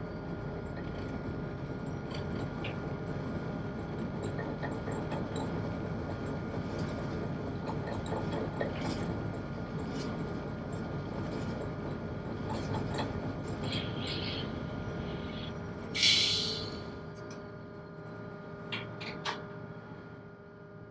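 A single-screw tugboat's 1000 PS main engine running with a steady drone, carrying a few held tones. About two thirds of the way through comes a sudden loud hiss that fades within a second, followed by a couple of sharp clicks near the end.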